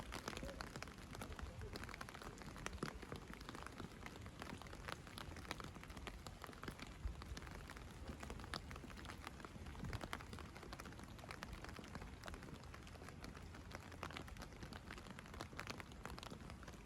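Steady light rain, with many small drop ticks.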